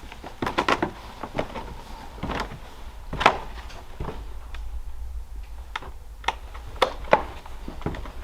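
Irregular knocks and clicks of someone moving about and handling things in an empty house, the loudest about three seconds in, over a steady low rumble.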